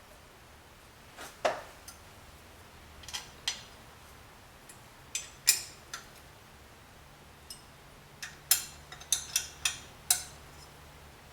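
Metal parts and hand tools clinking and knocking as a cylinder head is set on a fixture plate and clamped down: about a dozen sharp separate clinks, with a quick run of them about two-thirds of the way through.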